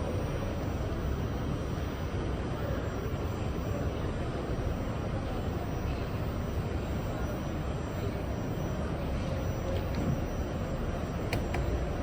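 R68 subway train running on the track, heard from inside the car: a steady rumble with a faint hum, and a couple of short clicks near the end.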